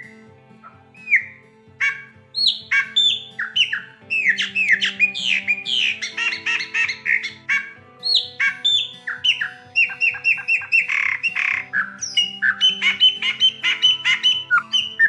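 Chopi blackbird (graúna) singing: a few single whistled notes, then a fast run of varied sweeping whistles and chatter that pauses briefly near the middle. Soft background music with held low notes plays underneath.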